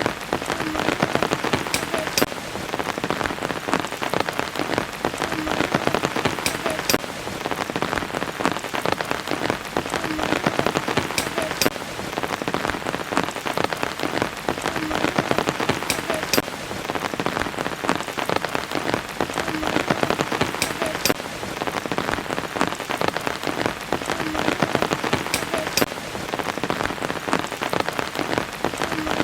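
Steady rain falling, with many individual drops striking a surface. The same pattern of drops recurs about every four and a half seconds, as in a looped rain recording.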